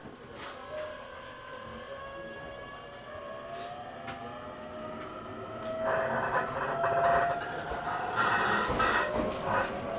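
E127 series electric train heard from inside the passenger car as it gathers speed: its motor whine, several tones together, climbs slowly in pitch, and the running noise of wheels on rail grows louder from about six seconds in.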